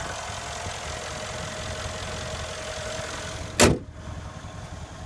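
Mercedes-AMG 5.5-litre bi-turbo V8 idling steadily, with a steady whine over the low rumble. About three and a half seconds in comes a single sharp thump, after which the whine stops and it is quieter.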